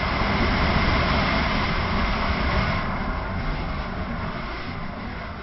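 Steady rush of a waterfall's falling water, easing slightly about three seconds in.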